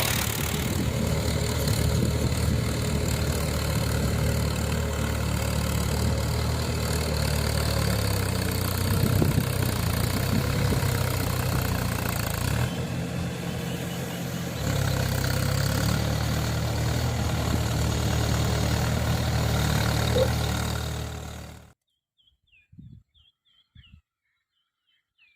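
Tractor engine running steadily while puddle-ploughing a wet paddy field, easing off briefly about halfway through and then picking up again. About 22 s in it cuts off suddenly, leaving near silence with a few faint bird chirps.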